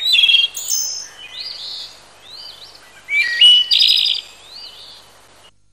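Songbirds singing and chirping, several short repeated phrases overlapping, loudest just after the start and again around three seconds in; the sound cuts off shortly before the end.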